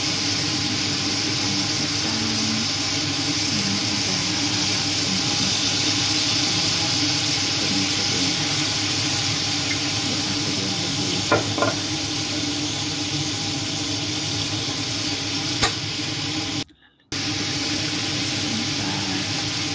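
Chicken pieces and aromatics sizzling as they stir-fry in a wok over a gas flame, a steady frying hiss, with a few light clicks of the spatula against the wok. The sound cuts out for a moment near the end.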